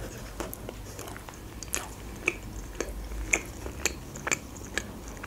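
Close-miked chewing of a mouthful of burger: wet mouth clicks and smacks, about two a second.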